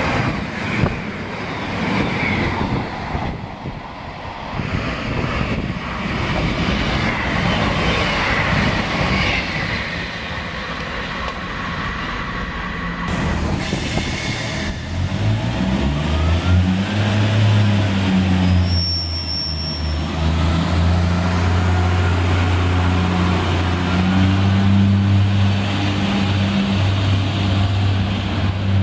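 Diesel multiple unit train at a station: rumbling wheel and rail noise for the first half, then the diesel engine note rises about halfway through and holds steady to the end.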